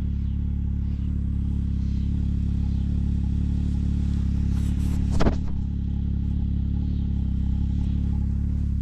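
A 4x4 vehicle's engine running steadily with a low, even hum. About five seconds in there is a single brief knock.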